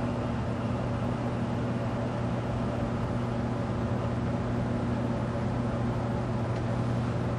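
Vintage Evergo (Montgomery Ward) 48-inch ceiling fan motor at the lowest setting of a solid-state variable speed control, giving a steady electrical hum over a soft rush of air. The hum is the kind that grows as this control turns the fan down.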